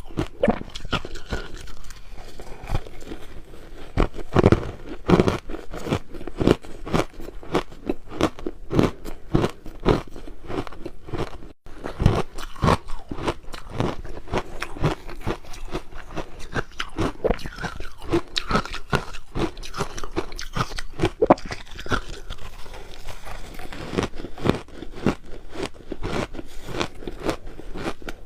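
Crushed ice being bitten and chewed: dense, continuous crunching, with a brief break about twelve seconds in.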